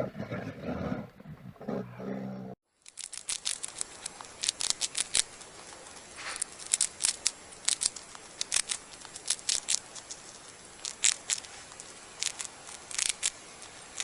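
A big cat's roar trails off. After a brief break comes a long run of irregular, sharp clicks and snips, a few a second, over a faint hiss.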